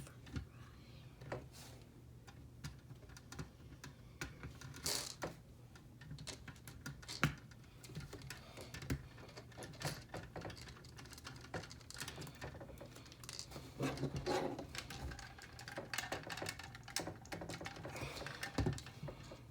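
Irregular light clicks and taps of plastic model-kit parts being handled and fitted together, with one sharper click about seven seconds in.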